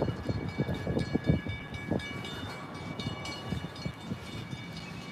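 Distant train: a low, uneven rumble with faint steady high tones over it, louder in the first couple of seconds.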